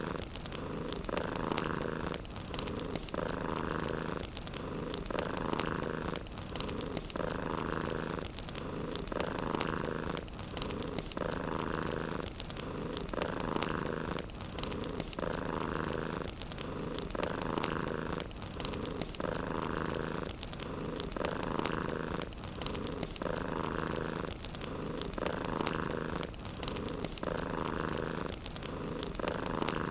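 Domestic cat purring steadily, the purr swelling and easing in a regular rhythm with each breath in and out, over faint crackling from a wood fire.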